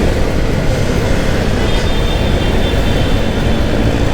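Wind buffeting a motorcycle helmet microphone while riding in traffic, with the motorcycle's engine and surrounding road traffic running underneath.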